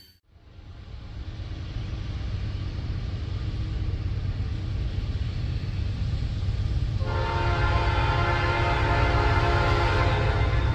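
Approaching freight train rumbling, growing louder, then the locomotive's horn sounds a steady chord about seven seconds in, held for about three and a half seconds.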